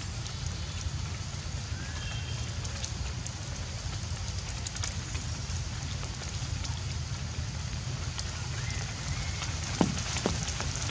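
Steady outdoor noise with a low rumble and scattered light crackling and clicks, faint short chirps here and there, and two or three short, sharp sounds near the end.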